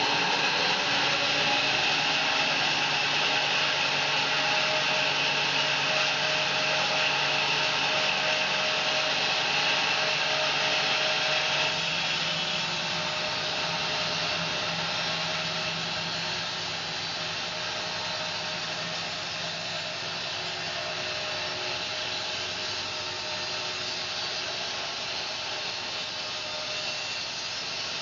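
Home-built bandsaw mill running, its blade sawing through a fir log in a steady continuous cut. It gets a little quieter about twelve seconds in.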